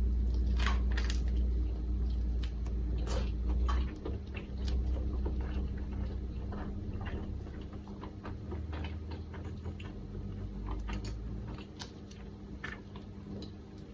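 Close-miked chewing of an onigiri rice ball: irregular crisp crunches and wet mouth clicks over a low rumble that fades out about three-quarters of the way through.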